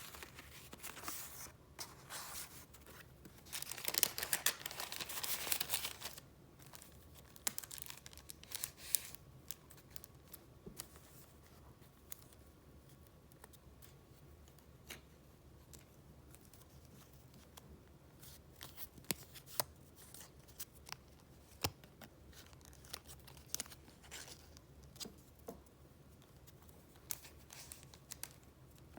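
Paper goods and file pages being handled: a loud, drawn-out rustle about four seconds in, then lighter rustling and scattered small clicks and taps.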